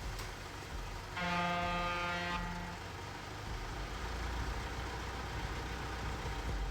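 Low steady rumble of vehicle engines, with a vehicle horn sounding once, a steady tone of a little over a second starting about a second in.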